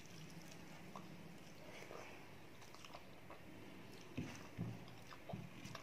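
A person chewing a mouthful of rice mixed with onion pakoda: faint chewing and small mouth clicks, with three louder chews between about four and five and a half seconds in.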